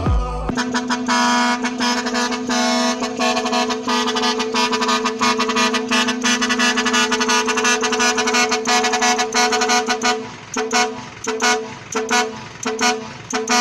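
Truck air horn blowing one long held chord for about ten seconds, then sounding in about five short blasts.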